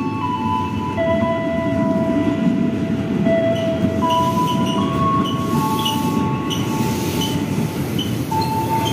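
KRL electric commuter train running close past along the station track, a steady rumble of wheels on rail. A gentle mallet-and-chime music track plays over it.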